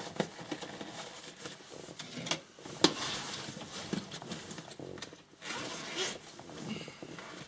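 Rustling with scattered clicks and knocks of equipment being handled, as a diagnostic scanner and its kit are got out of a bag. One sharp click comes about three seconds in.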